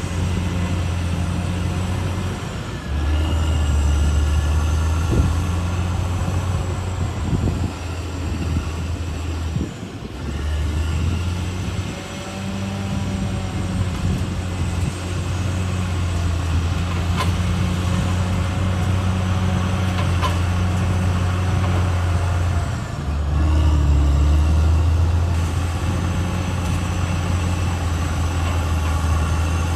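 Caterpillar D6R XL bulldozer's diesel engine running under load, its note shifting as the load changes: it picks up about three seconds in, sags briefly about ten seconds in and surges again a little after twenty seconds. A few short clanks come through over the engine.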